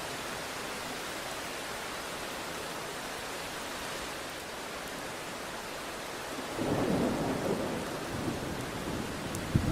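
Steady rain hiss, then about two-thirds of the way in a rolling thunder rumble swells up and fades, with a sharper crack near the end.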